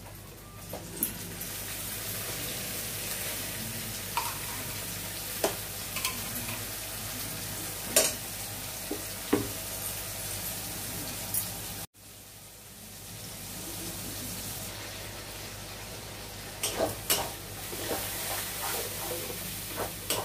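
Ground onion, tomato, ginger and garlic paste sizzling steadily in hot oil in a kadai, with occasional sharp clicks. The sizzle breaks off briefly about halfway, and from about three-quarters of the way in a metal spatula scrapes and knocks rapidly against the pan as the paste is stirred.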